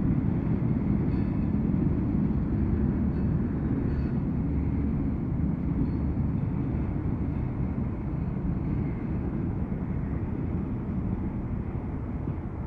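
Low rumble of a freight grain train's cars rolling away on the track, slowly fading as the end of the train recedes.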